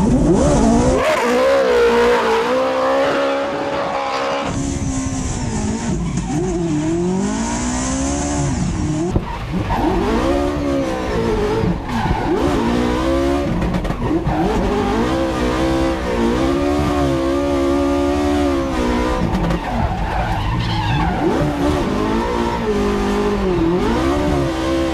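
Ferrari 458 Italia V8 in a Toyota GT86, revving up and down over and over as the car is driven hard, with tyres squealing and skidding.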